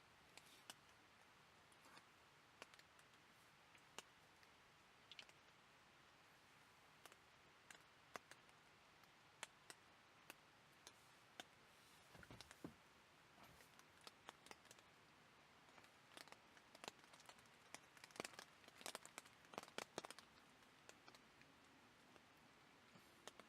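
Faint scattered clicks and light taps of small handling sounds, growing busier about halfway through.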